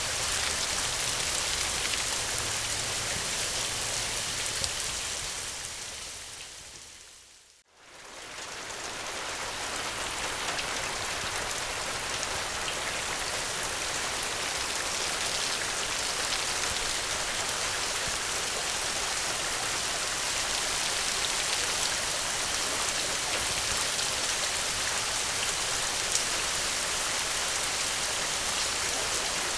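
Steady rain, an even hiss of falling drops. About a quarter of the way in it fades almost to silence, then swells back within a couple of seconds.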